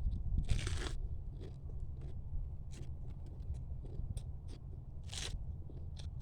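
Mud crab shell crunching and cracking between teeth, with chewing. The loudest crunches come about half a second in and again about five seconds in, with small clicks between them, over a steady low rumble.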